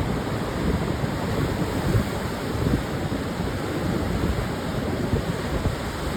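Pacific surf breaking and washing on a sandy beach, a steady rushing wash, with wind buffeting the microphone in a low rumble.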